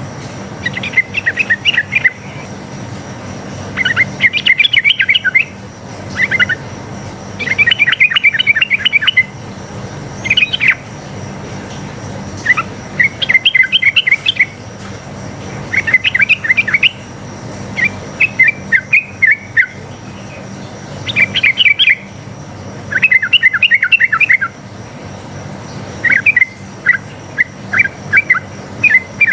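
Sooty-headed bulbul (trucuk) singing in rapid chattering bursts, phrase after phrase of quick bubbling notes with short pauses between. This is the 'ropel' style of song used as a lure recording to make other bulbuls answer.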